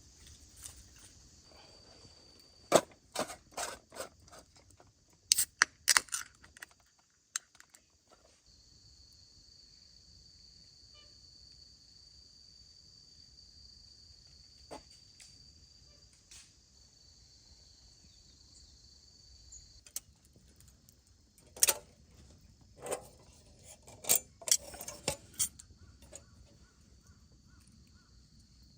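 Insects trilling steadily at a high pitch, broken by two spells of sharp clinks and knocks, a few seconds in and again past the middle, as things are handled close by.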